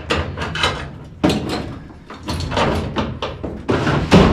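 A rapid, irregular series of knocks and bangs, about a dozen, some ringing briefly: parts being worked and struck inside a gas furnace cabinet.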